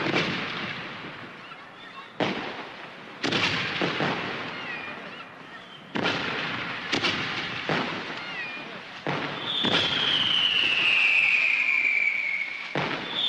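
A fireworks display: a series of bangs from bursting shells, each trailing off in crackle. Near the end a loud whistle falls steadily in pitch over a couple of seconds, and another begins right after it.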